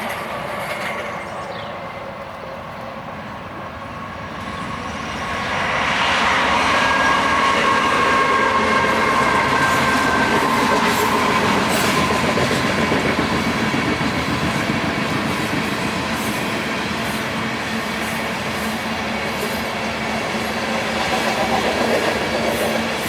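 Freight train rolling by at speed over a railroad bridge: the wheels clatter on the rails and the noise swells about five seconds in and stays loud, with a thin steady ringing tone over it for a few seconds.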